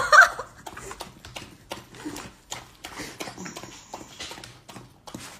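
A dog eating rice from a plastic takeout container: quick, irregular clicking and smacking of its chewing and licking. There is a brief high voice at the very start.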